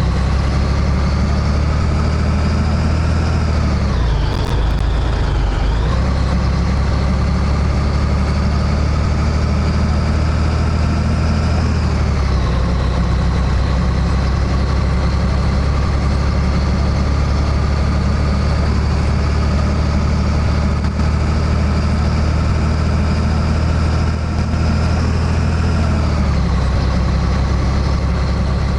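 Scania 113H truck's diesel engine running under way, its pitch climbing slowly as the truck pulls and dropping sharply at each gear change, about four times.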